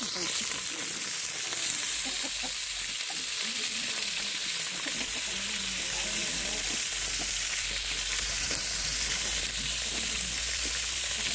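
Onions frying in hot oil in a metal sufuria over an open wood fire: a steady sizzle.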